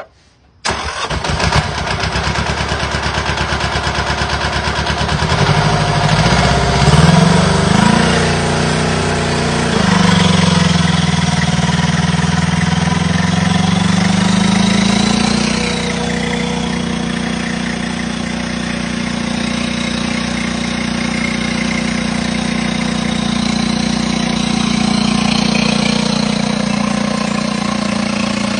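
Mini pulling tractor's engine starting up about a second in, then revving up and down a few times before holding a steady higher speed.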